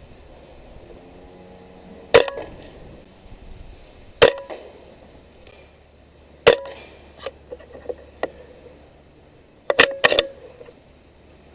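A .22 Benjamin Marauder PCP air rifle firing: sharp shots about two seconds apart, five in all, the last two close together, with a few fainter clicks between them.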